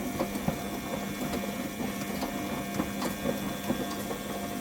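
Front-loading washing machine running mid-wash with its covers off: a steady hum with scattered light clicks and knocks from its works.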